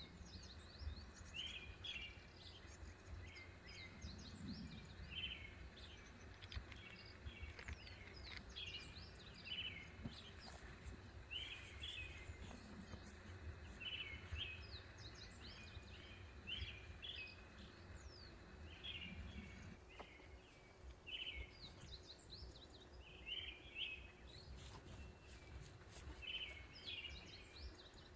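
Small birds chirping: short bursts of calls recurring every second or two, over a faint steady low rumble.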